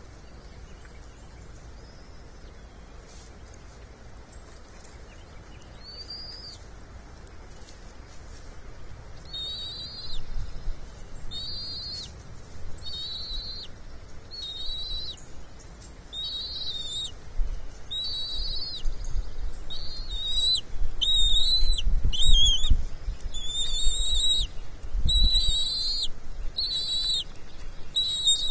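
Bald eaglet chicks peeping high and thin, one short call about every second from a third of the way in and growing louder toward the end: begging calls at feeding. Low thumps and rumbles come through under the calls in the second half.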